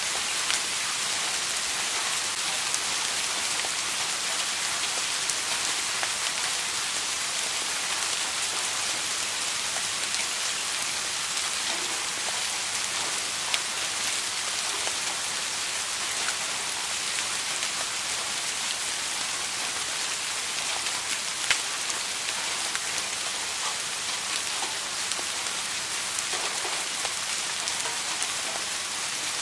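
Steady rain falling on a surface: an even hiss with scattered individual drops ticking, a few louder ones standing out.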